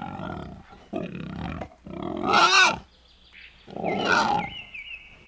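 Wild boar grunting and growling in four rough bursts, the loudest about two and a half seconds in.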